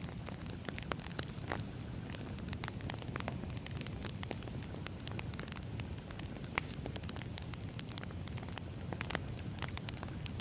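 Crackling wood fire: a steady low rumble of flames with frequent sharp, irregular pops and crackles from burning logs.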